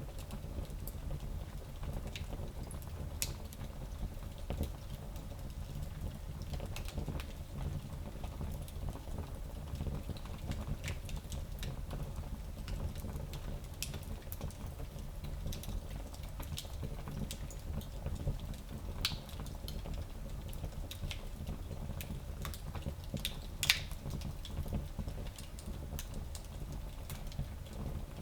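Fire crackling in a small fireplace: scattered sharp pops and snaps over a steady low rumble, with one louder pop near the end.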